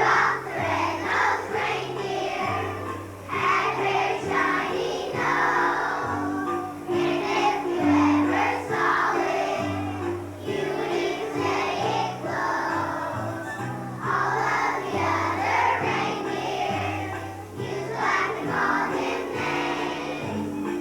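Children's choir singing a song over an instrumental accompaniment with a bass line that steps from note to note.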